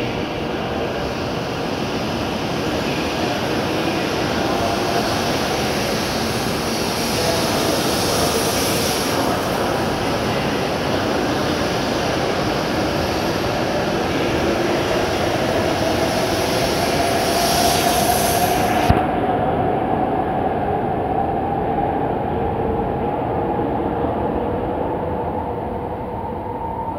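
E7 series Shinkansen pulling out and accelerating: steady rolling noise with a whine that rises slowly in pitch as the traction motors speed up. It grows quieter near the end as the last car passes.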